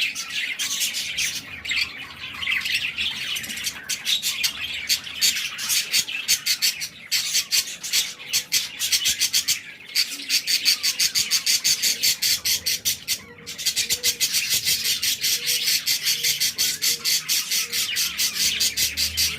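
Budgerigar chicks begging as they are fed, a fast, even run of raspy squawks at several calls a second. The calls pause briefly about 13 seconds in, then resume louder.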